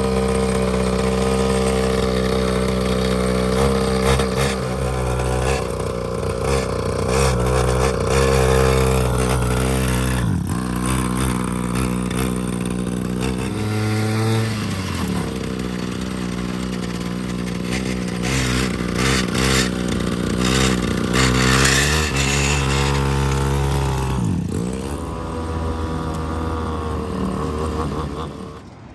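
Small two-stroke dirt bike engine running, its pitch dipping and rising several times as it is revved, then dying away near the end.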